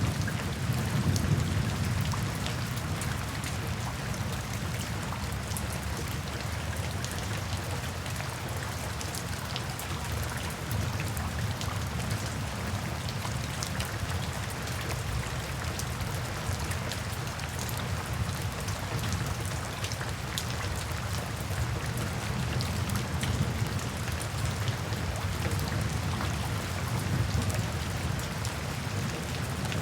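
Steady rainfall on forest foliage, with many small drop ticks through an even hiss. A low rumble of distant thunder fades over the first few seconds and swells faintly again later.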